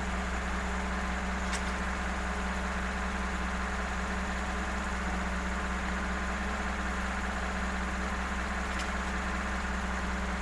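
A motor running at a steady, unchanging drone.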